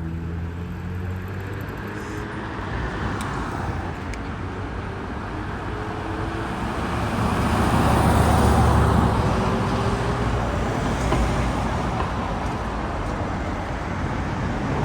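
Street traffic: an engine idling steadily, then a vehicle passing, loudest about halfway through.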